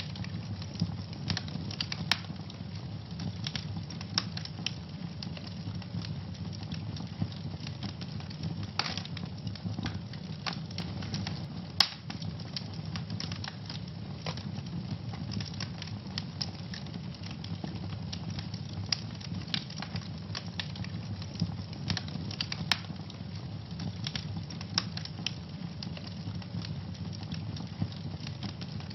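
Wood fire burning in a fireplace: a steady low rush of flame with frequent irregular crackles and snaps, one sharper pop about twelve seconds in.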